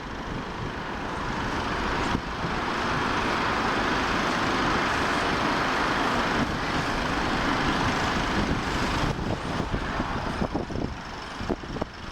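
Airliner's jet engines passing close by: a broad rushing noise that swells over the first couple of seconds, holds, then fades away near the end.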